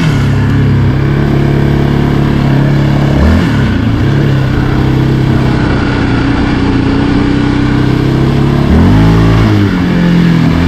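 Yamaha Raptor 700R ATV's single-cylinder four-stroke engine running under way, with the engine note dropping and climbing again about three seconds in and once more near the end as the throttle changes.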